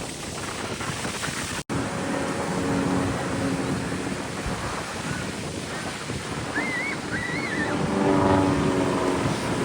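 Ocean surf and wind buffeting the microphone in a steady rush, with a few short high chirps about two-thirds of the way through.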